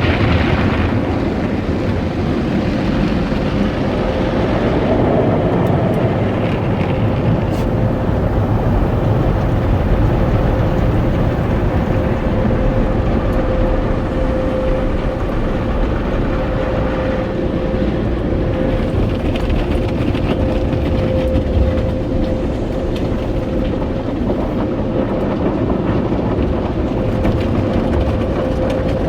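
Automatic car wash machinery heard from inside the car: a steady, loud rumbling wash with a constant whine running through it.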